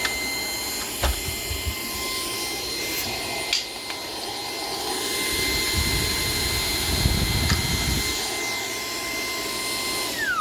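Shark PowerDetect cordless vacuum running with a steady high motor whine, with a few sharp clicks of debris striking the tool. Near the end it is switched off and the whine falls in pitch as the motor winds down.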